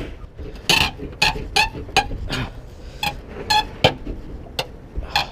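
About ten irregular, sharp metallic clanks and knocks of a hand tool working against the police car's metal body, several with a short ring.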